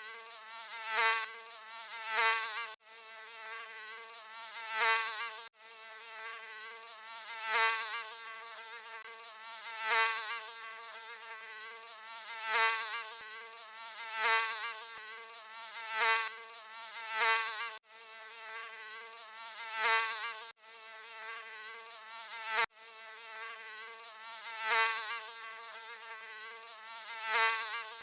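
Mosquito wing whine, a continuous wavering buzz that swells louder about every two seconds. It drops out for an instant a few times where the recording is looped.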